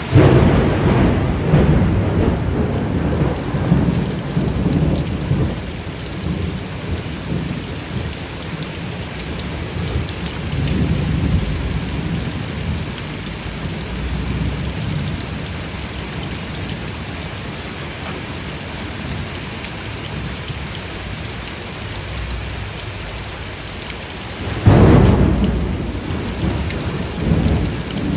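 Steady heavy rain with thunder: a loud thunderclap at the very start that rolls on for several seconds, a softer rumble about ten seconds in, and a second sharp clap about 25 seconds in.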